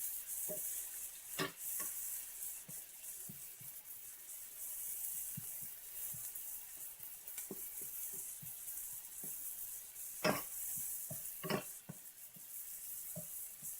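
Chopped garlic, onion and tomato sizzling in a little olive oil in a pan, with a steady hiss and scattered clicks and scrapes of a utensil stirring against the pan, the sharpest about a second and a half in and again near the end.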